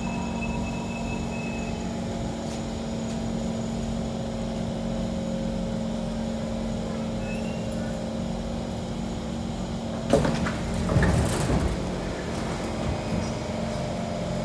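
A Kawasaki C151 train standing at the platform, its onboard equipment humming steadily in several fixed tones. About ten seconds in, a short burst of knocks and clatter rises over the hum for a couple of seconds.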